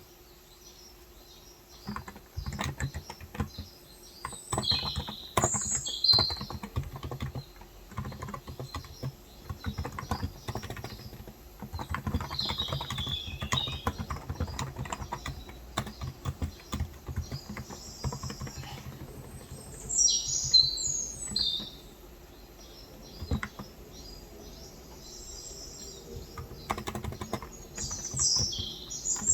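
Typing on a Cox Endeavour electrostatic capacitive tenkeyless keyboard with 35 g switches, in uneven runs of keystrokes after a short pause at the start. Birds chirp in short clusters several times.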